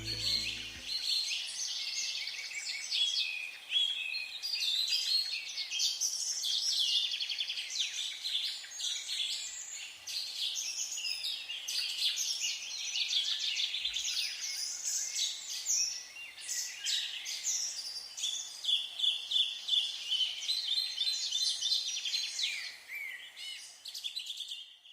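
Several songbirds singing and chirping at once, a busy chorus of overlapping trills and tweets. Background music fades out in the first second.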